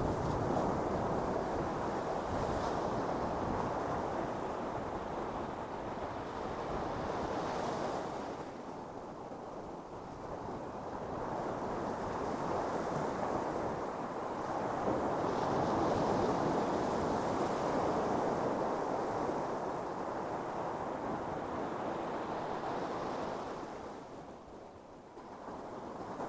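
Ocean surf breaking and washing up on a sandy beach, a continuous rushing that swells and eases as each set of waves comes in.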